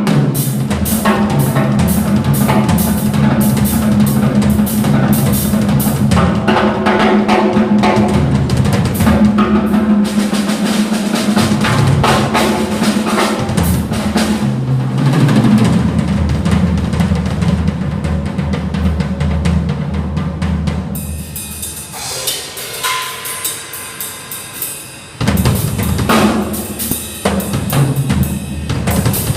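Drum kit played over backed music, with bass drum, snare and cymbals keeping a steady beat. About three-quarters through it drops to a quieter, sparser stretch for a few seconds before the full beat comes back in.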